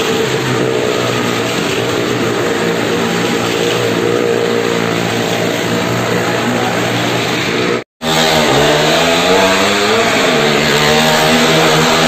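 A car engine and a motorcycle engine run steadily as both circle the vertical wooden wall of a well-of-death drum. A brief dropout comes about eight seconds in, and after it the engine pitch swings up and down.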